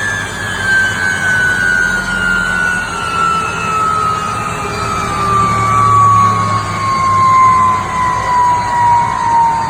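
Lycoming T53 gas turbine running loud, its whine falling slowly and steadily in pitch as the turbine spools down, over a rushing and low rumbling engine noise.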